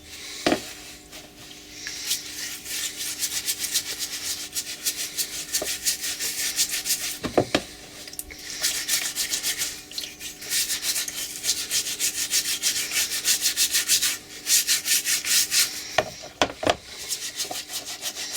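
Quick back-and-forth scrubbing of greasy steel bolt-cutter parts with soap, in three long bouts of rapid strokes, with a few sharp knocks of a part being handled between them.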